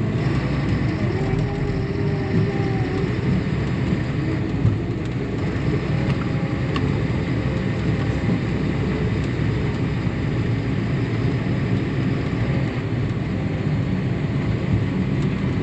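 Farm harvest machinery running steadily during corn harvest: a continuous engine and machine rumble with no changes in pace.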